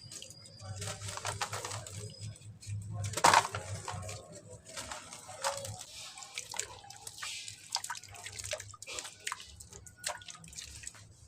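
Soft cement crumbling into water: irregular small splashes, drips and crackles, with one louder splash about three seconds in.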